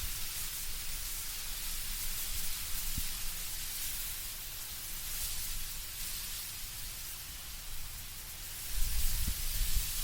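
Wind blowing through autumn trees, leaves rustling in a steady hiss that swells and eases in soft gusts. A low rumble rises near the end.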